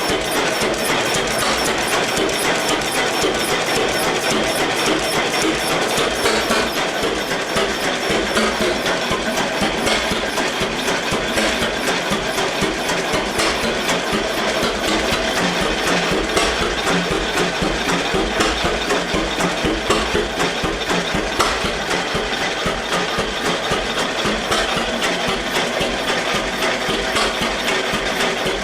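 1919 Eagle 12-22 tractor's two-cylinder engine running steadily, with a rapid, even clatter.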